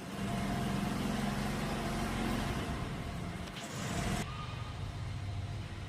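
Jawa 42 motorcycle's single-cylinder engine running steadily through its exhaust; about four seconds in the sound changes abruptly as the higher hiss drops away, leaving the low engine beat.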